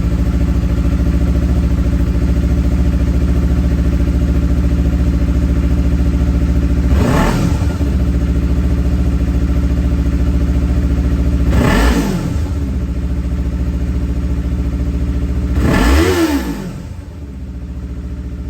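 Yamaha R3's parallel-twin engine idling through its exhaust and revved three times, each a quick rise and fall in pitch. The revs come about five seconds apart, and the idle is a little quieter after the last one.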